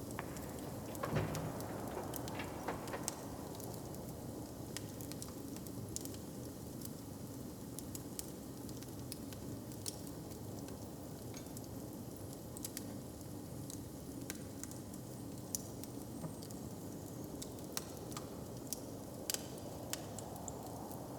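Wood fire crackling, with scattered sharp pops over a steady low rumble and a louder pop about a second in.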